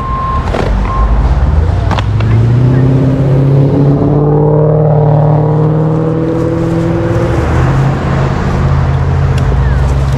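Vehicle engines running with a steady low drone, while one engine climbs in pitch from about two seconds in to about seven seconds as it accelerates; a few sharp knocks near the start.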